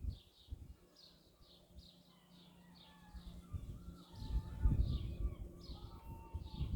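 Small birds chirping over and over, a few short chirps a second, with thin whistled notes joining in from about three seconds in. A low rumbling noise comes and goes in the second half and is the loudest sound.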